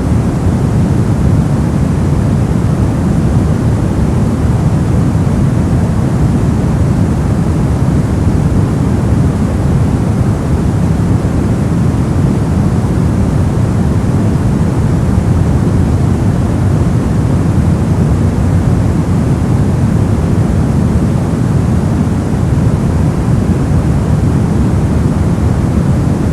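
Steady white-noise sleep track: an even, unchanging rush of noise, strongest in the low end and softer in the highs.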